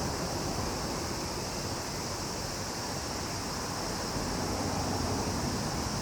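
Steady, unbroken chorus of cicadas, a continuous high hiss, over a low rumble.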